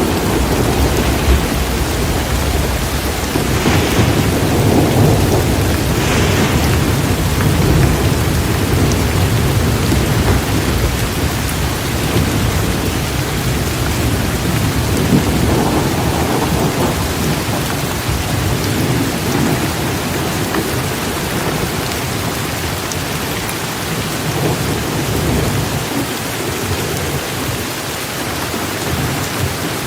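Heavy, steady rain falling with thunder rumbling low underneath, the rumble strongest in the first half and easing toward the end.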